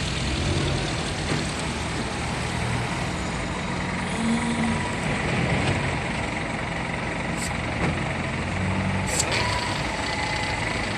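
A heavy vehicle's diesel engine running steadily, with two short sharp hisses late on.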